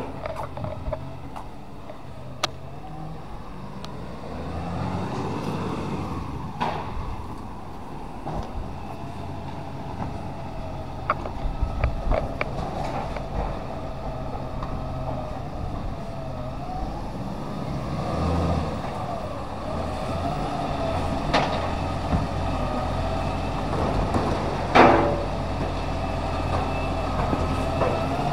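Recycling garbage truck running, its engine pitch rising and falling several times as it works, with scattered clicks and knocks and one sharp bang near the end.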